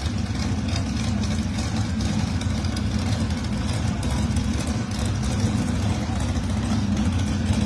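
Drag race cars' engines idling steadily at a low, even rumble, with no revving.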